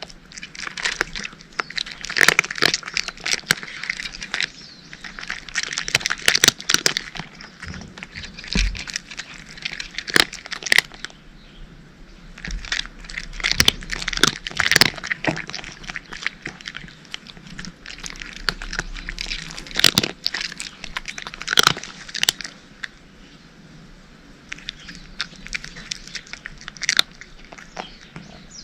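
Cats crunching dry kibble: irregular runs of sharp, crisp crunches and clicks as the pellets crack between their teeth, with short pauses between mouthfuls.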